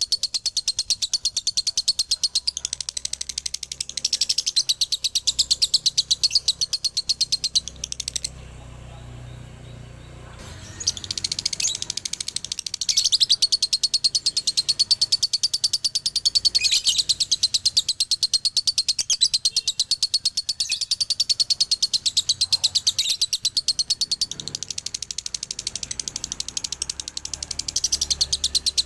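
Male lovebird's rapid, high-pitched chattering song: an unbroken stream of fast chirps, the long 'ngekek' and 'dobelan' delivery that fanciers prize. It stops for about two seconds roughly eight seconds in, then starts again.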